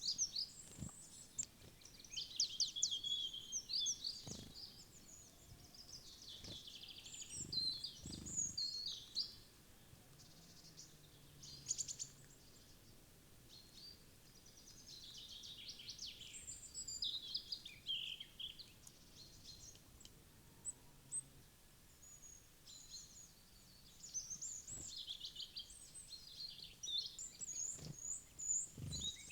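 Small woodland songbirds chirping and singing in quick, overlapping bursts of high calls and short trills, with a few soft low thumps.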